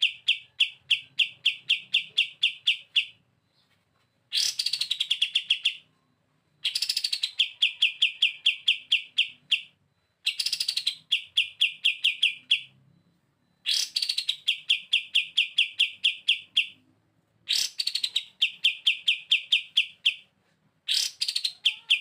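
Kapas tembak bulbul singing its 'bren' burst song: repeated bouts of two to three seconds, each a brief upward flourish followed by a fast, machine-gun-like run of identical short notes, with short pauses between bouts.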